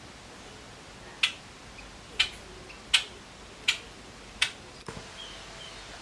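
A bird pecking at its food, making five sharp, evenly spaced clicks of beak on food or dish, about one every three-quarters of a second, followed by a duller knock near the end.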